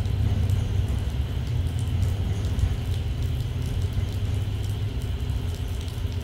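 Rain falling, with scattered drop ticks over a steady low rumble.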